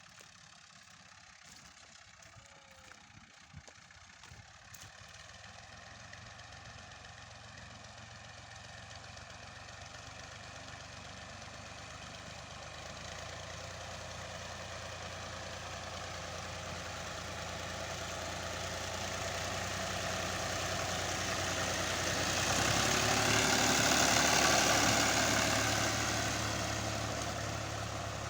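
Al-Ghazi tractor's diesel engine running steadily while it pulls a harrow. It grows slowly louder as it comes closer, is loudest near the end, then eases off a little as it passes.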